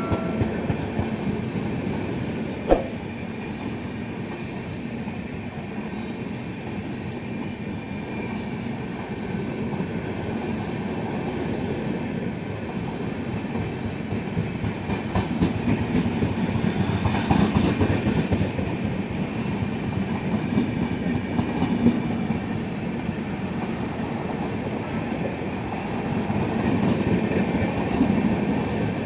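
Train hauled by a WAG-7 electric locomotive rolling slowly along the track, its wheels clicking over the rail joints over a steady rumble. A single sharp knock sounds about three seconds in, and the rumble swells twice in the second half.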